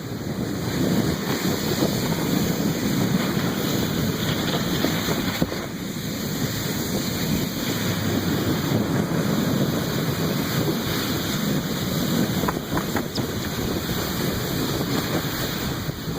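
Wind buffeting the microphone over the steady rush of a plastic tote sled being towed across snow, with a brief lull about five and a half seconds in.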